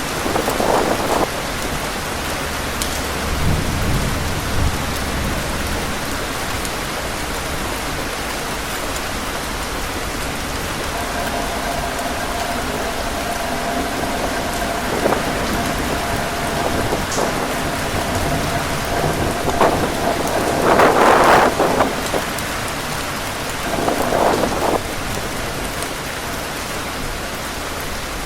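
Heavy rain falling steadily, with wind gusting in swells, the strongest about two-thirds of the way through. A low rumble comes a few seconds in.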